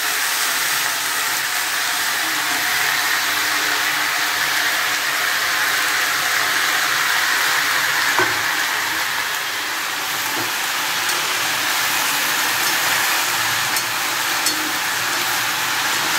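Sliced potatoes and pointed gourd (potol) frying in mustard oil in a steel kadai: a steady sizzle, with a few light clicks of the metal spatula against the pan as it is stirred.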